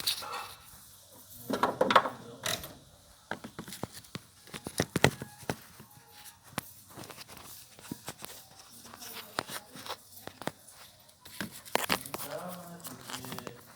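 Irregular clicks and knocks of hand tools on a Fiat Uno 1.0 engine as its crankshaft pulley is turned by hand with the spark plugs out, a finger over a plug hole to check each cylinder's compression for a suspected blown head gasket.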